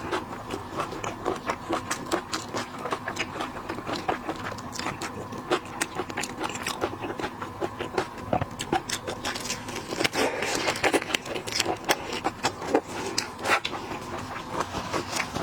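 Close-miked eating of seafood: irregular chewing, smacking and crackling mouth sounds, with many short clicks.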